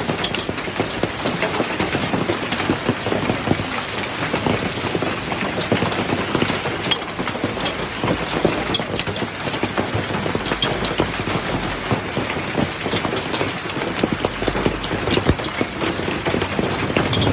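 Heavy rain falling steadily, a dense patter of many drops striking surfaces.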